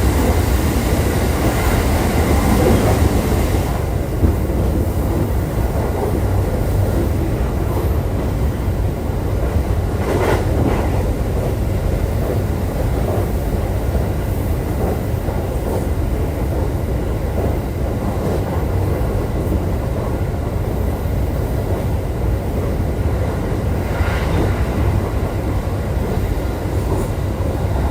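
E531 series electric train running at steady speed, heard from inside the car: a continuous low rumble of wheels on the rails, with a brief louder swell about ten seconds in.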